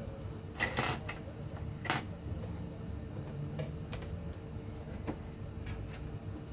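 Scattered light clicks and taps, about half a dozen spread irregularly, with two close together about a second in. They sound over a steady low hum and a faint steady tone.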